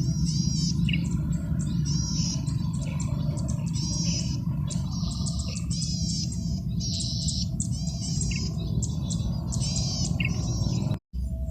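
Male golden-headed cisticola singing: a string of short, buzzy, trilled notes repeated about once or twice a second, over a steady low rumble. The song breaks off for an instant near the end.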